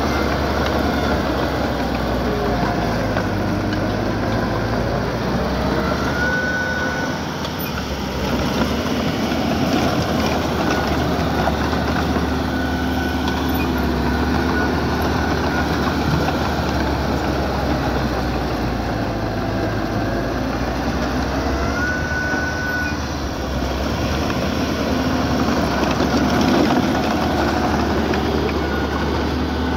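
Diesel engine of small earthmoving machinery running steadily under work, with a few short high whines now and then.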